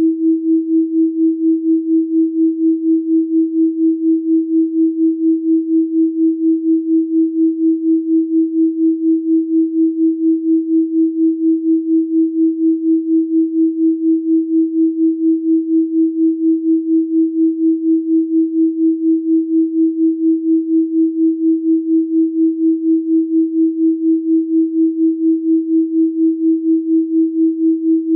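Electronically generated 324 Hz sine tone, held steady in pitch and pulsing evenly in loudness about four times a second.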